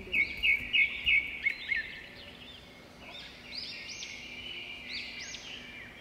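Small birds singing: a quick run of four loud chirps in the first second or so, then repeated high arching notes that overlap one another.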